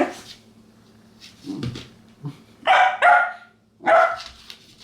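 Shetland sheepdog puppy barking, a few short barks with the three loudest in the second half: it is wary of a new stuffed toy it does not take for a toy.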